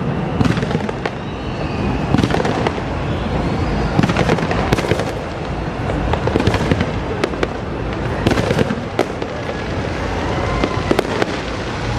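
Aerial fireworks display bursting: a rapid, irregular series of bangs and crackles, several every second, over a steady din.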